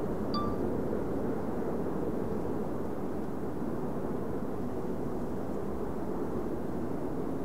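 Freight train rolling past with a steady rumble of wheels on rails, and a brief high squeak about half a second in.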